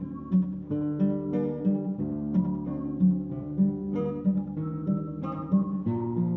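Background music: acoustic guitar playing a plucked, strummed tune with a steady rhythm.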